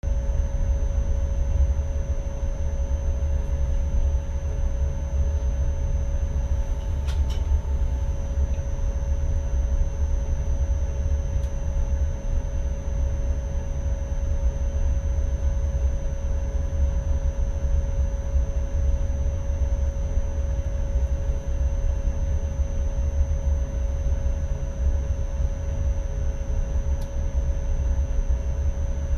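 Cab of an NS ICM electric multiple unit: a steady low rumble with a constant hum and a thin high whine over it. There is a brief click about seven seconds in.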